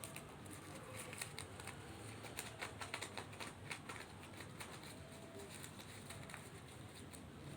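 Light, irregular tapping and clicking, thickest in the first half and thinning out toward the end.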